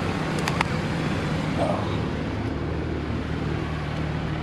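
Vehicle engine idling steadily, with a couple of faint clicks about half a second in.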